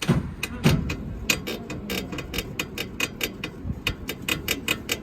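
Honda City front suspension creaking and clicking as the car body is pushed down and rocked, a fast, uneven run of sharp ticks with a few dull thumps near the start. The mechanic takes it for a worn ball joint.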